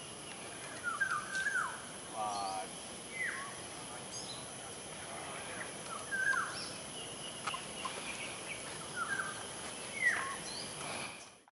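Wild birds calling, short down-slurred whistled notes repeated every second or two with a brief fast trill early on, over a steady high-pitched drone. The sound cuts off abruptly near the end.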